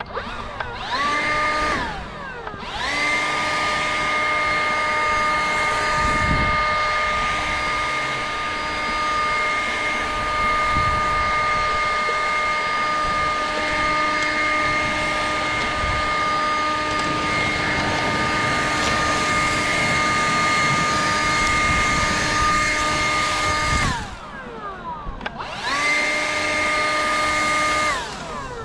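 A small electric motor spins up to a steady high whine, runs for about twenty seconds, winds down, then spins up again for a short second run of a few seconds.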